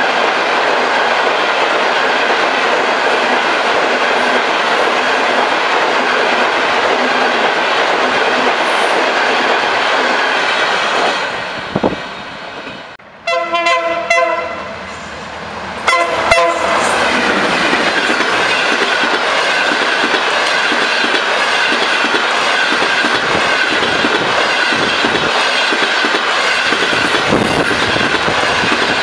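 A diesel-hauled long-distance passenger train's coaches rushing past at speed; after a break, a locomotive horn sounds twice, a longer blast and then a short one, as another train approaches, and its coaches then rush past.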